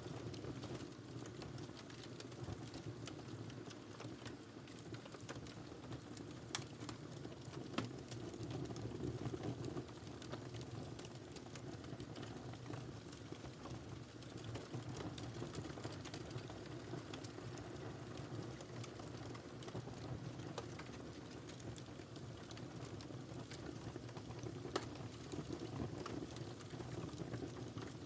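Wood fire crackling in a fireplace: a steady low rumble of burning with scattered small snaps and a few sharper pops, two of them about a quarter of the way in and one near the end.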